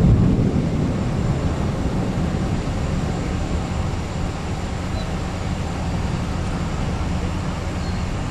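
Steady low rumble of strong wind from a tornado passing close by, loudest in the first second.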